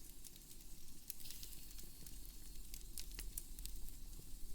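Wood fire crackling in a fireplace: irregular sharp pops and ticks over a low steady rumble.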